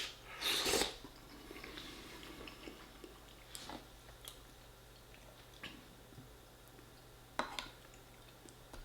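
A person eating homemade lasagne close to the microphone, with chewing and mouth sounds. There is a loud scrape-like burst about half a second in, and a sharp click about seven and a half seconds in.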